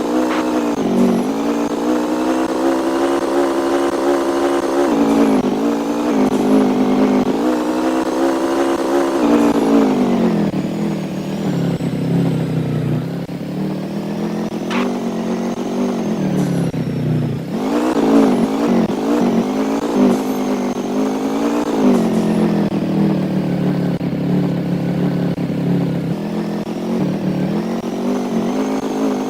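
A vehicle engine running continuously, its pitch rising and falling several times as it speeds up and slows.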